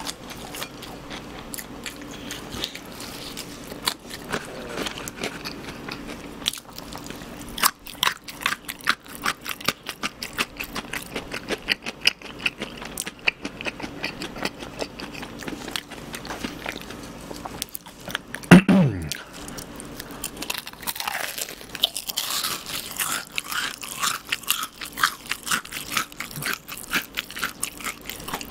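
Chewing and crunching of crispy fried chicken close to a microphone, with many small crackling crunches. About two-thirds of the way through comes the loudest sound, a short sliding sound that falls sharply in pitch.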